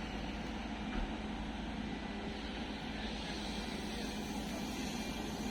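Steady drone of a train with an E464 electric locomotive and Vivalto coaches, with a constant low hum and no change in level.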